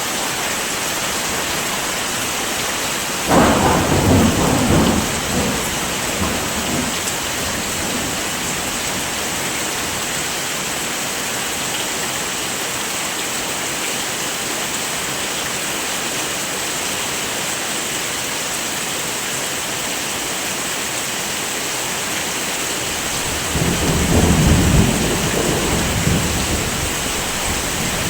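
Steady heavy rain, with two rolls of thunder rumbling in over it, one a few seconds in and another near the end, each lasting two to three seconds.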